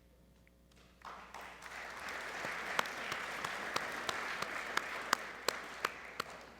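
Audience applauding, starting about a second in and dying away near the end, with single sharp claps standing out above the crowd at about three a second.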